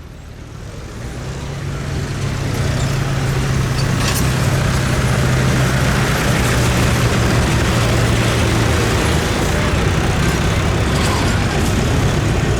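A competition pulling vehicle's engine running hard under load, a heavy roar with a deep steady drone. It grows louder over the first two seconds or so, then holds steady.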